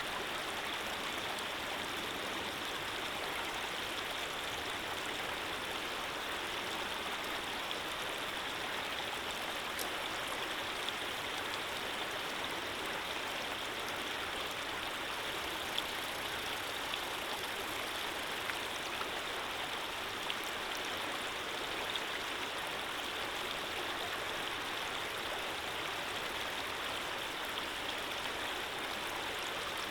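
Running water flowing steadily, an even rushing sound with a few faint ticks scattered through it.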